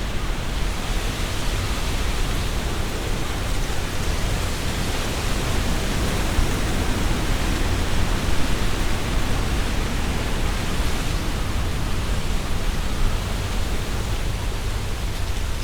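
Strong wind blowing through trees, their leaves rustling in a steady rush that swells slightly now and then.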